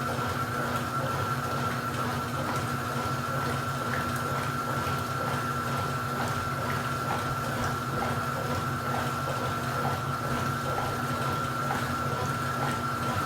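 Washing machine drain pump running, a steady hum with a thin high whine over the rush of water being pumped out.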